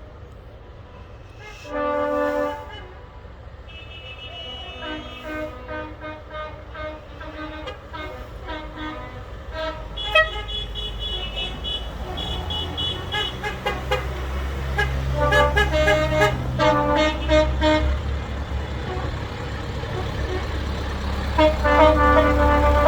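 Farm tractors and vehicles driving past with a deep engine rumble that grows louder through the second half. A horn toots once, loud and short, about two seconds in, and more pitched tones come and go over the engines.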